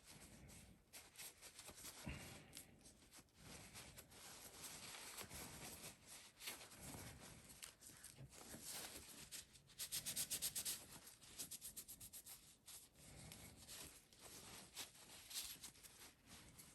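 Faint rubbing and scrubbing by hand on a starter part being cleaned, in irregular strokes, with a run of quick back-and-forth strokes about ten seconds in.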